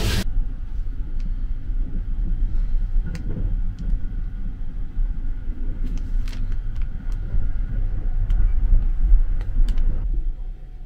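Low rumble of a sleeper train running, heard from inside a compartment, with light crinkles and clicks of a plastic-wrapped towel being handled. The rumble drops about ten seconds in.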